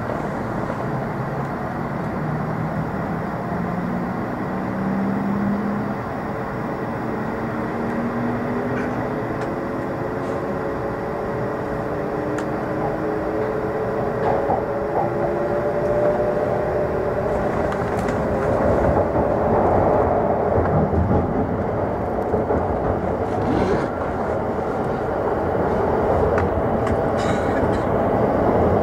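Inside a Hokuriku Shinkansen E7/W7-series train accelerating away from a station: a motor whine climbs steadily in pitch in several steps as the train gathers speed, over the steady rumble of the running gear, which grows a little louder toward the end.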